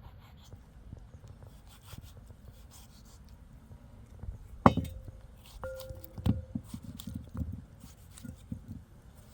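Cookware clinking: one sharp ringing knock about halfway through, a second ringing clink about a second later, then a run of dull knocks.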